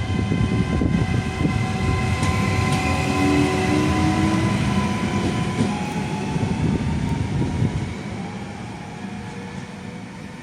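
Electric train passing and moving away: a low rumble with several whining tones that slowly drop in pitch, fading over the last few seconds.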